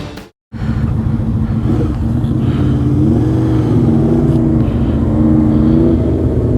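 Motorcycle engine running steadily at low revs, its pitch drifting gently up and down. The sound starts after a brief cut to silence about half a second in.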